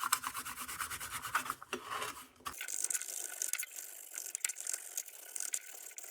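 Superfine 0000 steel wool scrubbed rapidly back and forth over the tin of a lantern's crown, a dense scratchy rubbing.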